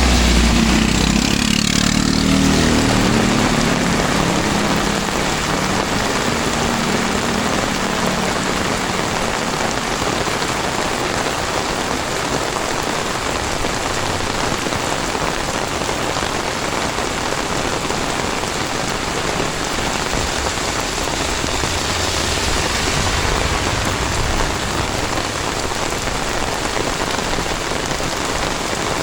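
Heavy rain pouring steadily onto the ground and surrounding surfaces. In the first few seconds a vehicle engine passes and fades away.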